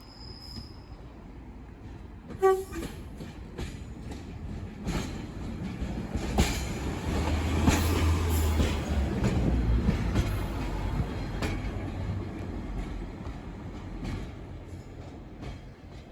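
A train gives a short horn toot, then passes by. Its rumble and clatter build to a peak about eight seconds in and fade away.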